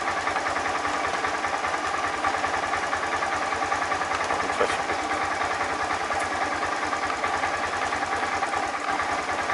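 Honda Grom JC61's 125 cc single-cylinder engine idling steadily with an even, rapid beat.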